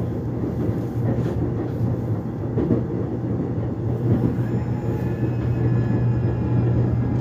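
Seoul subway Line 1 train running between stations, heard inside the car: a steady low rumble and hum of wheels on track with a few faint clacks. A faint high whine of several tones comes in about halfway through.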